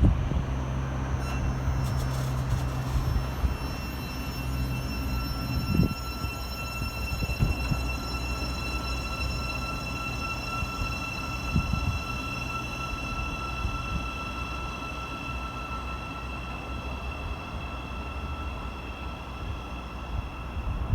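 A train running through the station, with a low hum for the first few seconds and a steady high-pitched whine that slowly fades. A few single knocks sound along the way.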